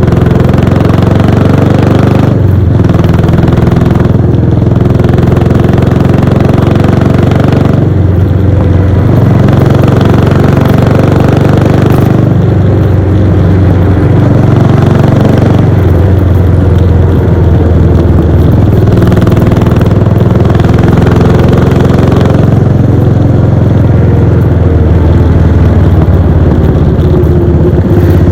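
Royal Enfield Bullet 500's single-cylinder engine and exhaust, heard from the saddle while riding. It pulls steadily, with the throttle eased off and reopened about five times.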